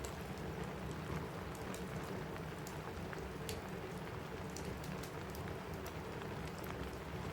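Steady rain on a cabin roof, with a fireplace crackling: scattered sharp pops over the even hiss of the rain.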